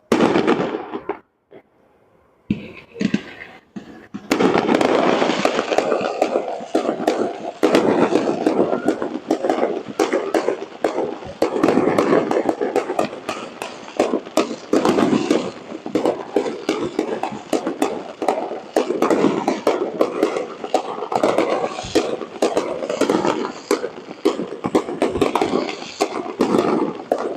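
Fireworks display going off. After a few scattered bangs with short pauses, a dense, continuous barrage of bangs and crackles starts about four seconds in.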